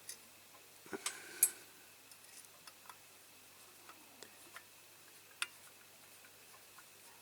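Small screwdriver driving a screw into a diecast model's base plate: faint, irregular clicks and ticks of metal on metal, with a few sharper clicks about a second in and again midway.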